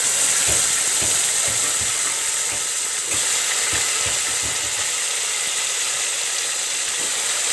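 Brinjal (eggplant) and potato pieces freshly added to hot oil, sizzling in an aluminium pressure cooker pot: a steady, loud hiss.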